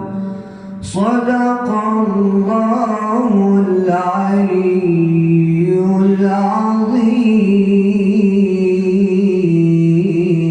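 A man reciting the Quran in a melodic chant (tajweed), drawing out long held vowels that slide between pitches. A short pause for breath comes just before a second in.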